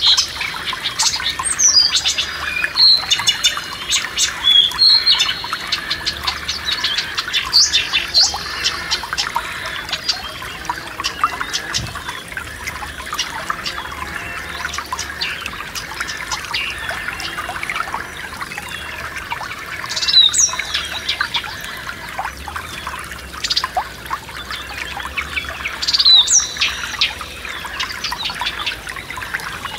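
Forest stream babbling steadily, with songbirds singing over it: clusters of chirps and quick falling whistles in the first few seconds, again about twenty seconds in and near the end.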